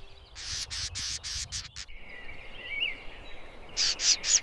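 Animated forest ambience: birds chirping in quick runs of short high notes with a brief warbling call between them, over a low steady background.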